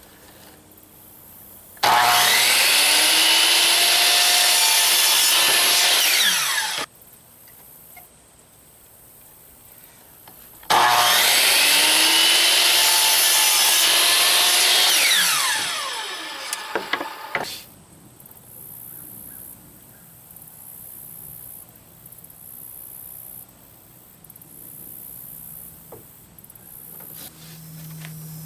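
Electric power saw cutting plywood in two runs of about five seconds each. The motor starts abruptly each time and winds down after the cut, the second time more slowly, with a few clatters as it stops.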